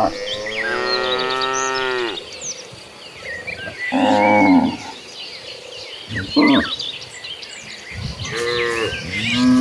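Cattle mooing: one long drawn-out moo, followed by several shorter moos a second or two apart.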